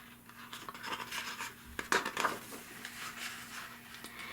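Paper pages of a picture book being handled and turned: a run of short, scratchy rustles over a faint steady hum.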